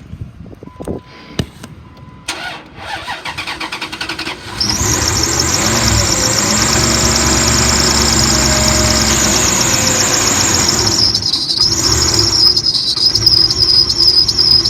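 A Dodge Ram's 5.9-litre V8 is cranked by the starter for about two seconds after a short beep, then catches and runs with a loud, continuous high-pitched squeal from the belt drive. The serpentine belt is loose and the tensioner is not holding it, and the squeal is taken for a bad pulley.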